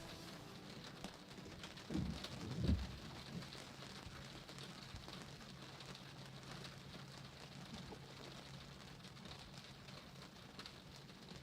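Rain pattering steadily, with a brief low rumble about two seconds in and a faint steady low hum underneath.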